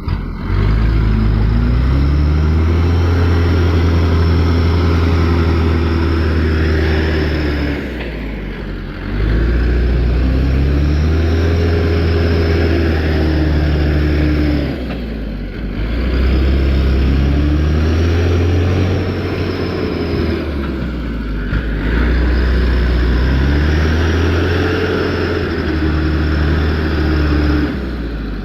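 Mitsubishi Canter truck's diesel engine revved hard four times, each rev rising, held for several seconds, then dropping back, with a high whine over each rev: the truck is bogged down on a slope and straining to climb out.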